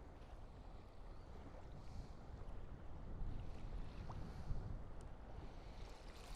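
Wind buffeting the microphone and small waves lapping against a sea kayak's hull, with a few faint clicks.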